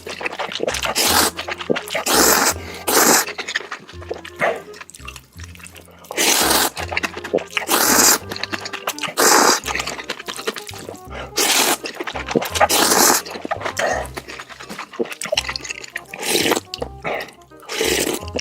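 Noodles being slurped and eaten up close in a string of loud, wet bursts about every second or two, over background music with a steady bass line.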